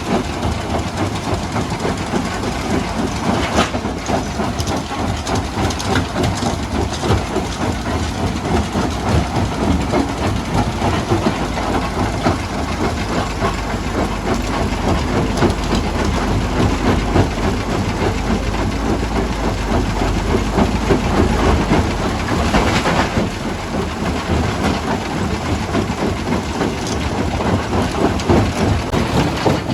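Rock-crushing machinery running: a steady heavy drone with continuous irregular clattering and knocking of stone, a deeper rumble through the middle, and a couple of sharper impacts.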